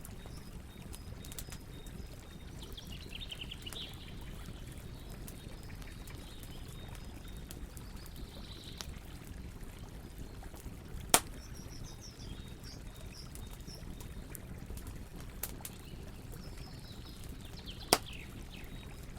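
Wood campfire crackling with faint scattered clicks and two loud sharp pops, one a little past the middle and one near the end, over a steady rush of flowing water. Birds chirp in short trills several times.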